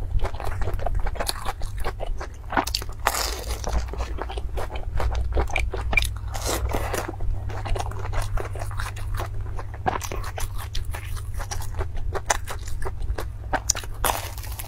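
Close-miked biting and chewing of fried dough sticks (youtiao), with a dense run of crunchy, crackly mouth sounds.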